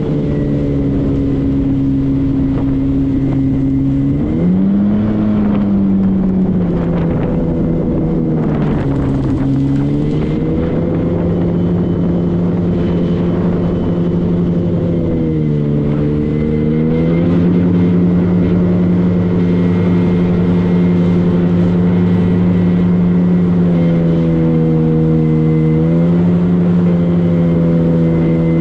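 Motorboat engine running steadily at speed, its pitch dipping and rising again several times as the throttle is eased and opened.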